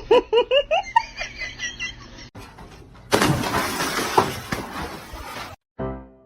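A quick run of high squeaky chirps, then a loud crash and clatter of something breaking lasting about two and a half seconds, with a sharp hit in the middle.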